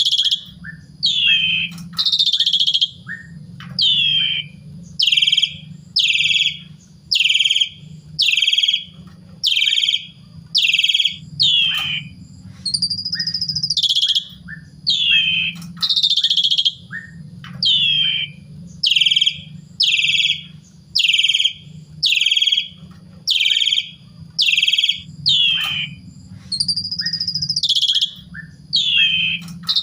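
Asian pied starling (jalak suren) singing a long, loud run of repeated whistled notes, each sliding downward, about one and a half a second. A longer phrase that rises then falls breaks in near the start, around the middle and near the end. A steady low hum runs underneath.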